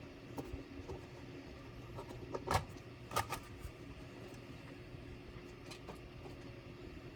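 Scattered light clicks and taps of small parts and tools being handled during a laptop teardown, loudest about two and a half and three seconds in, over a faint steady hum.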